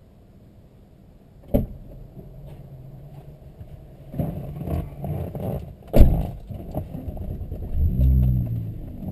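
Volkswagen Mk3 Jetta's VR6 engine running, with a blip of revs rising and falling near the end. Two sharp knocks come about a second and a half in and again about six seconds in, the second the loudest sound.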